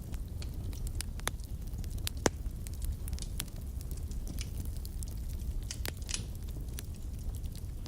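Wood fire burning in a fireplace: a steady low rumble of flames with frequent sharp crackles and pops, the loudest pop about two seconds in and a brief hissing burst around six seconds.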